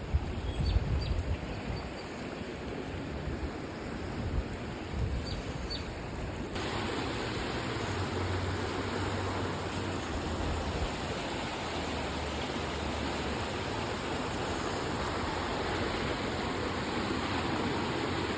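Creek water rushing steadily. It becomes suddenly louder and fuller about six and a half seconds in.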